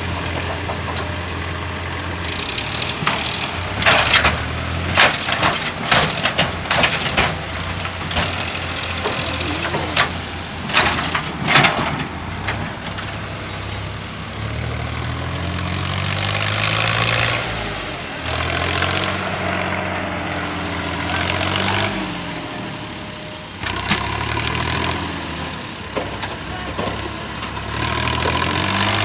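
Tractor engine running and repeatedly revving up and back down. Sharp clattering knocks sound over it during the first half.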